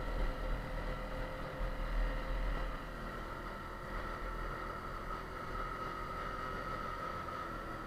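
Yamaha TTR 250 single-cylinder four-stroke trail bike engine running at a fairly steady speed under way, with a gusty low wind rumble on the microphone that eases about three seconds in.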